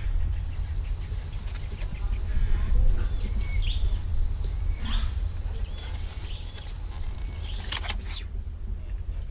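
Outdoor pond-side ambience: a steady high-pitched insect buzz that cuts off near the end, a few short bird chirps, and a low rumble underneath.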